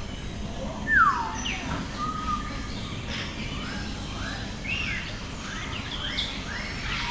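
Several birds calling: one loud call sliding down in pitch about a second in, then many short chirps from different birds overlapping, over a steady low background hum.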